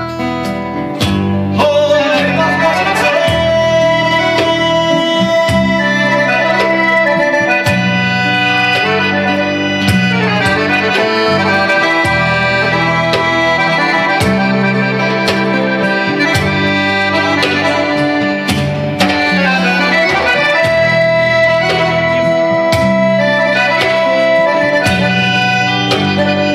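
Instrumental break of a folk song: accordion playing the melody in sustained chords over a rhythmic bass, with guitar accompaniment.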